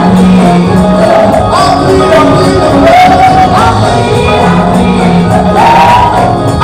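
Loud live gospel music with a lead voice singing over a band, and occasional shouts.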